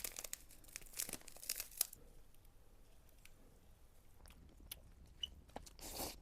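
Faint crinkling and crackling of food packaging being handled or opened: a run of small crackles over the first two seconds, then only scattered ticks.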